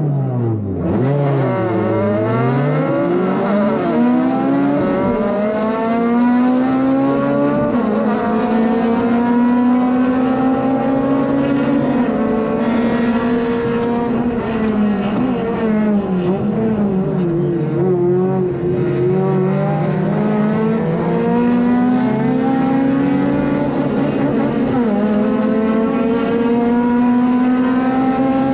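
Honda Civic FD2's four-cylinder engine at racing speed on track, heard from inside the car. It revs hard and then drops in pitch again and again through upshifts, braking and downshifts.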